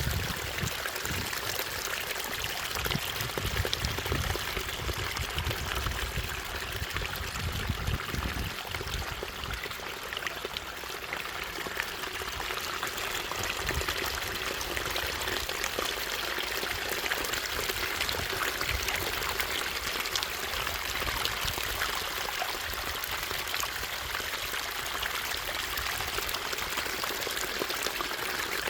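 Water running and splashing steadily over a small waterfall in a stream, a continuous rushing noise. Irregular low rumbling runs under it for roughly the first ten seconds.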